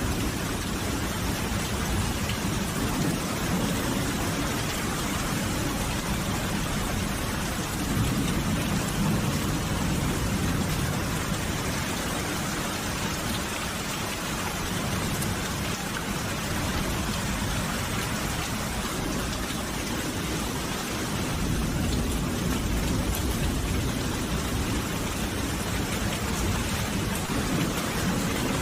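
Steady heavy rain falling, an even hiss, with low rumbles of distant thunder swelling and fading twice.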